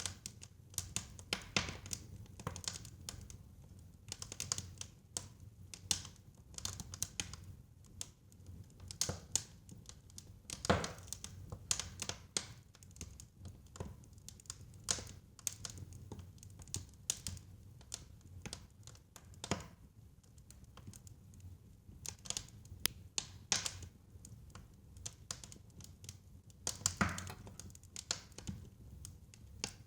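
Wood fire in a fireplace crackling, with irregular sharp pops and snaps over a low rumble of the flames; a few louder pops stand out, about eleven seconds in, near twenty seconds and near the end.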